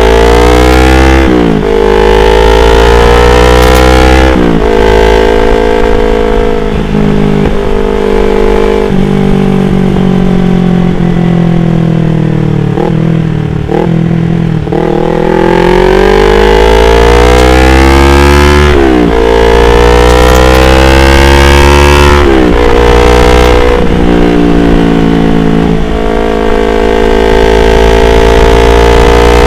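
Yamaha R25's 250 cc parallel-twin engine under way, revving up through the gears with a sharp drop in pitch at each upshift. About midway it eases off and falls in pitch with a few short throttle blips, then pulls up through the gears again.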